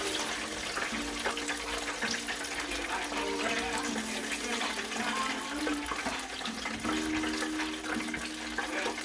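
Chicken deep-frying in olive oil: a steady crackling sizzle from the hot oil. Quiet music with held notes plays underneath.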